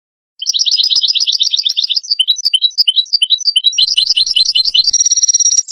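European goldfinch song: starting about half a second in, a fast twittering run of short, rapidly repeated notes, ending in a buzzy held note and a quick falling note.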